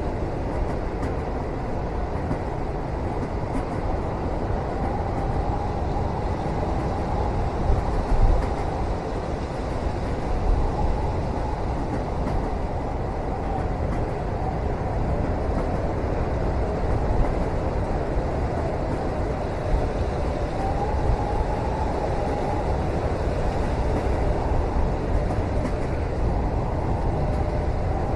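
Steady low rumble of a moving train heard from inside a passenger cabin, with a faint whine that drifts up and down above it.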